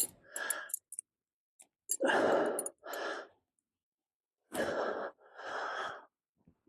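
A person breathing heavily: four noisy breaths in two pairs, each about half a second long.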